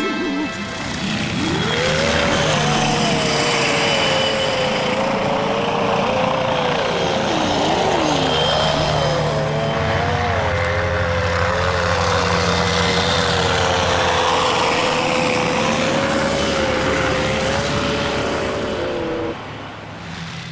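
Eachine E200 Bo-105 scale RC helicopter flying: the electric motor and rotor give a whine that wavers up and down in pitch with the throttle, over a steady rush of rotor noise. The whine stops suddenly near the end.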